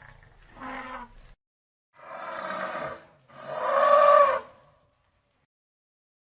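Three pitched animal calls, the third the longest and loudest with a rise and fall in pitch.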